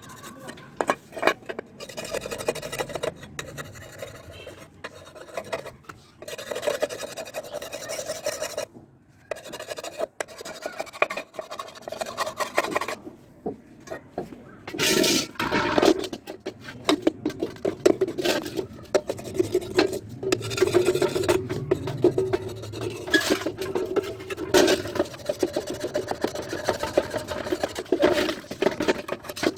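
Rapid, irregular back-and-forth hand rubbing and scraping on the aluminium engine side cover of a Honda CD 70, with a sharper, louder scrape about halfway through.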